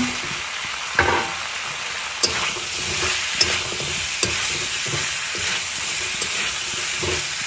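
Pork and spice paste frying and sizzling in a metal kadai while a metal spatula stirs and scrapes, with raw potato chunks tipped in at the start. Scattered short clicks of the spatula against the pan.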